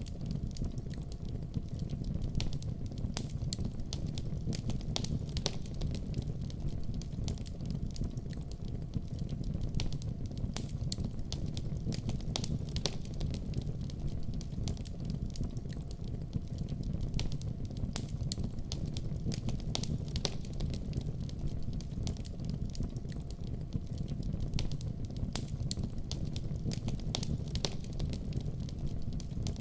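Wood fire in a fireplace burning with a steady low rumble and frequent small crackles and pops scattered throughout.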